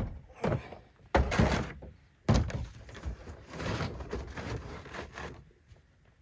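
A sharp knock, then two heavy thuds, each followed by a long sliding, rubbing scrape: camper and gear being handled while a truck camper is packed up.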